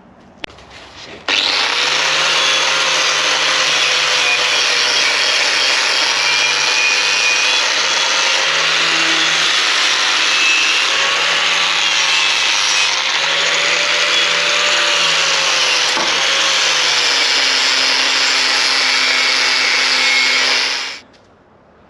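Handheld power tool abrading rust off the steel chassis brackets, running hard for about 20 seconds with a pitch that wavers as the tool is pressed into the metal. It cuts in about a second in and stops shortly before the end.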